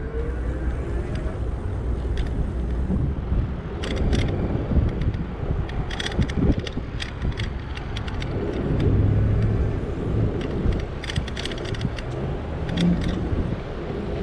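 Riding noise from an e-bike on city streets: a steady low rumble of wind and road, with scattered sharp clicks and rattles, most of them in the middle and later part.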